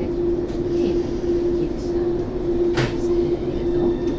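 Thessaloniki Metro train heard from inside the car, doors just closed: a steady hum with a single knock about two-thirds of the way through. A thin high whine sets in near the end as the train begins to pull away.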